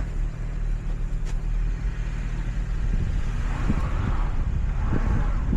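Car running with a steady low engine and road rumble.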